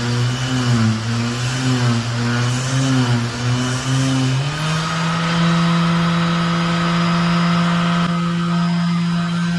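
Boat engine running. Its pitch wavers unevenly at first, then rises about halfway through and holds steady at the higher speed.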